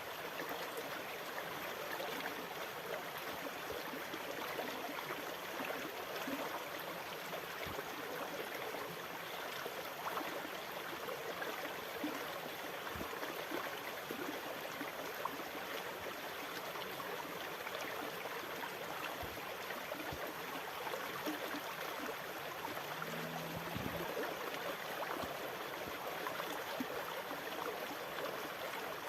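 Steady splashing and trickling of water, an even wash with no rise and fall of breaking waves.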